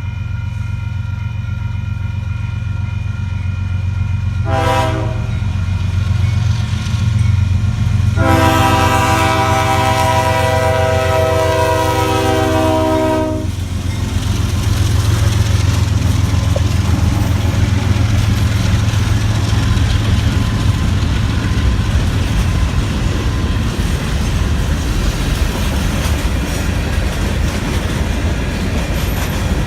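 First-generation Nathan K5HL five-chime horn on a CSX diesel locomotive: a short blast, then a long blast held about five seconds over the engine's steady drone. The locomotive then passes and the grain train's cars roll by, wheels rumbling and clacking over the rail joints.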